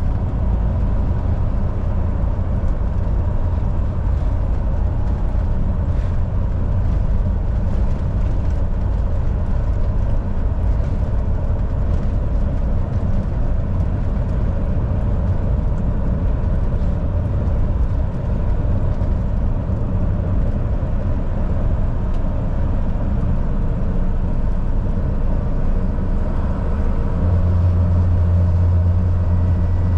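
Volvo VNL 760 semi-truck's diesel engine and road noise while driving, a steady low drone. About three seconds before the end, a deep engine note grows noticeably stronger and holds.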